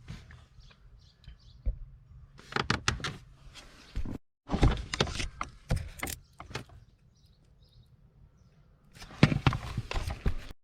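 Three bunches of sharp knocks and clunks, with quiet gaps between them and an abrupt cut a little over four seconds in.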